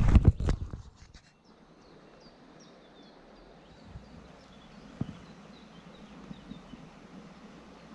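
A brief burst of loud knocks and clatter at the start, then quiet creekside background with a small bird giving a faint, rapid series of short high chirps, and one more knock about five seconds in.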